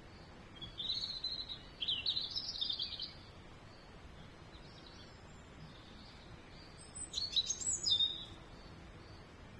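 A small songbird chirping in three short, quick bursts of high chirps: one about half a second in, a longer one about two seconds in, and another about seven seconds in.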